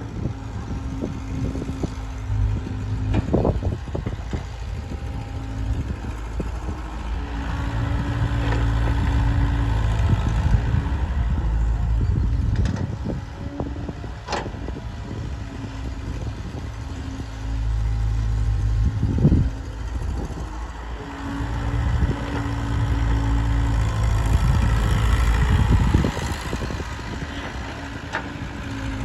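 Diesel engine of a JCB loader working on sand, running and revving up in three long surges under load, with a few sharp metal knocks and clatter.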